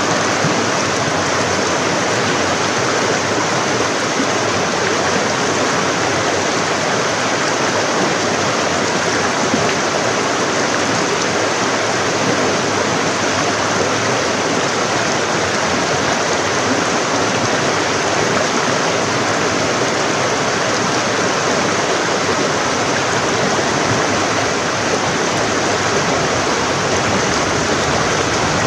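Forest stream, water running and splashing over rocks in a steady rush.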